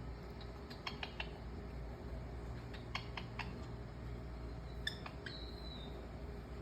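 A parrot making faint, scattered clicking sounds in small clusters, with one short falling whistle about five seconds in.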